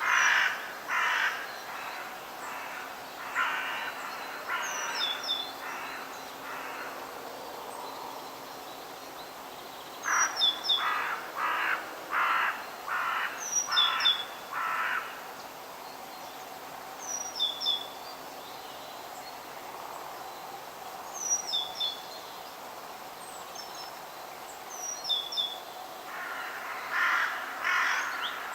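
Crows cawing in runs of harsh repeated calls, about two a second, with pauses between the runs. A smaller bird gives a short high chirp every few seconds, over a faint steady background hiss.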